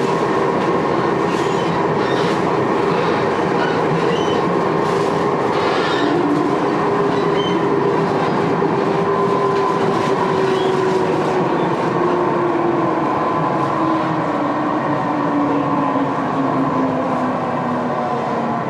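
Running sound inside a Tokyo Metro 6000 series car fitted with a Hitachi three-level VVVF inverter, a unit known for an unusual sound. The motor and inverter whine falls steadily in pitch as the train slows under braking, over wheel and rail noise with a few faint clicks early on.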